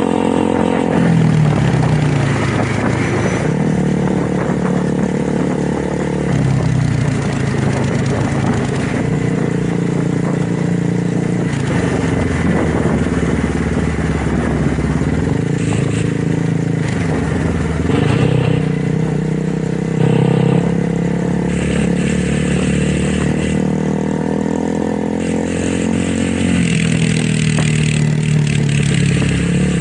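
Motorcycle engine and exhaust under way, the revs rising and falling several times as the bike accelerates and shifts.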